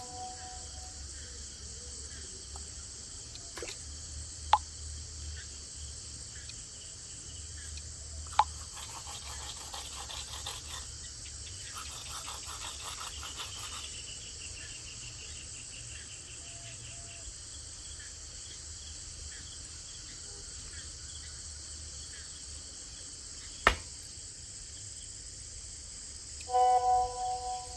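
Crickets and other night insects chirping steadily in a high, even chorus. Three sharp clicks stand out, the loudest near the end.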